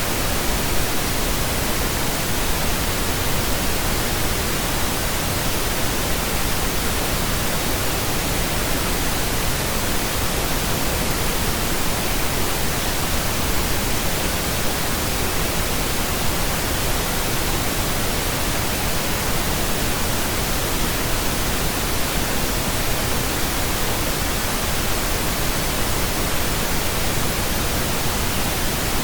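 Steady pink noise: an even, unchanging hiss spread across low and high pitches, with no tones or beat.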